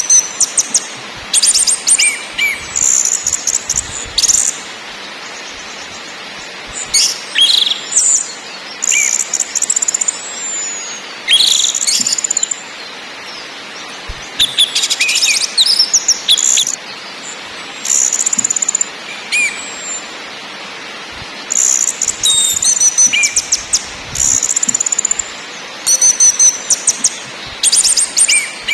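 Orange-headed thrush calling in repeated short bursts of rapid, high chattering, with pauses of a second or two between bursts, over a steady hiss.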